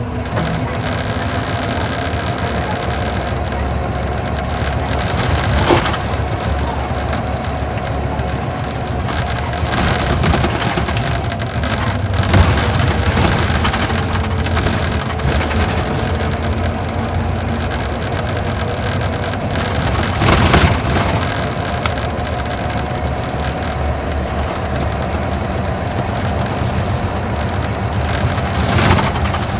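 Interior running sound of an Isuzu Gala coach with its V-type diesel engine, the engine note drifting slowly as the bus drives along, under steady road noise. There are four short thumps or rattles, a few seconds apart, as the bus goes over bumps.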